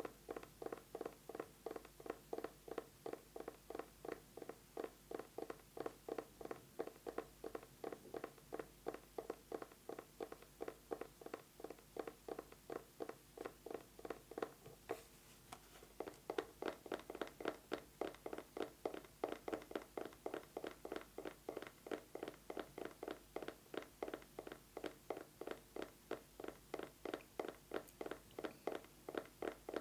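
Fast fingernail tapping on an eyeglasses case: a quick, even run of hollow taps, several a second, that breaks off briefly about halfway through.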